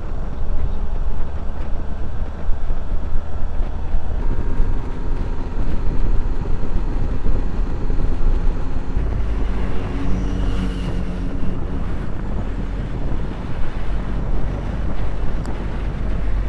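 Motorcycle riding along at road speed, its engine running under a heavy rumble of wind on the microphone. The engine note comes through a little more clearly around the middle.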